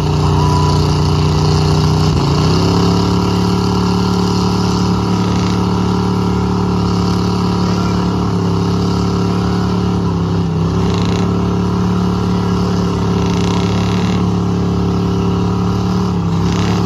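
Truck engine held at high revs under full throttle, as in a truck pull run. The pitch holds steady, steps up about two seconds in, and sags briefly twice, around ten and sixteen seconds in.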